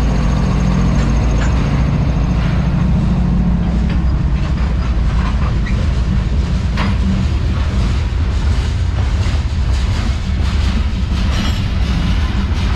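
A GE ES44AC diesel locomotive running past with a steady low engine drone that fades after the first few seconds, then covered hopper cars rolling by with steady wheel-on-rail rumble and a few sharp clacks.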